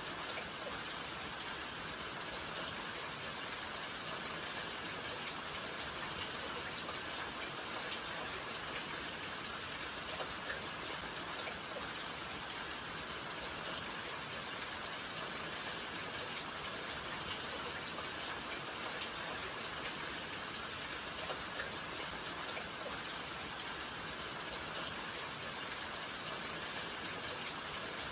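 Steady rainfall, an even hiss of rain with individual drops ticking faintly throughout.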